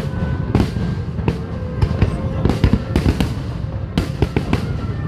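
Fireworks finale: a dense, unbroken barrage of aerial shell bursts, booms and cracks coming several a second, with music playing underneath.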